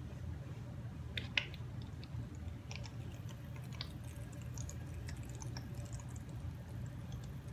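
Faint wet squishing and small scattered clicks of liquid acrylic paint being poured and spread to flood the canvas, with one sharper click about a second and a half in, over a low steady hum.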